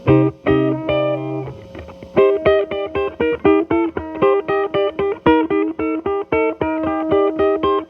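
Telecaster electric guitar played through an MI Audio Crunch Box distortion pedal at minimum gain into a Marshall Valvestate amp's clean channel, giving a light, mostly clean crunch. A few chords ring out, then from about two seconds in it plays a quick run of repeated picked double-stops, about four a second.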